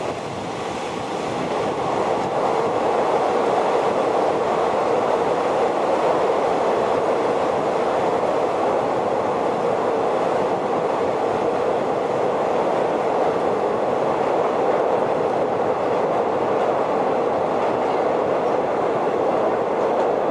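Passenger train running at speed, heard from an open carriage window: a steady rumble of wheels on rails that grows louder over the first two seconds while crossing a steel truss bridge, then holds.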